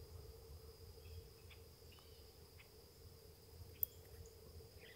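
Quiet woodland ambience: a steady high insect drone with faint scattered bird chirps, and one sharp click near the end. No turkey gobble is heard.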